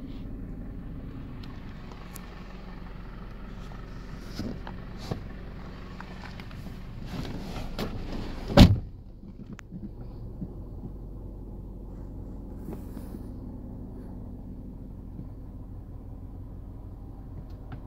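Honda CR-V's 2.0-litre four-cylinder petrol engine idling with a steady low hum, heard from inside the cabin. A few light clicks and knocks are mixed in, and one loud thump comes a little past halfway.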